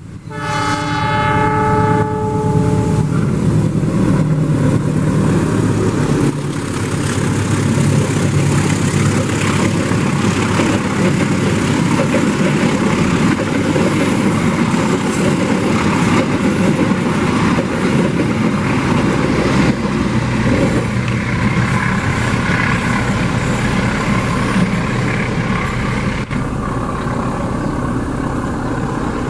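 A CC206 diesel-electric locomotive sounds its horn, one blast of about two seconds. The locomotive and a long string of passenger cars then pass close by, with the engine and the wheels rumbling on the rails. The noise thins somewhat near the end as the last car goes by.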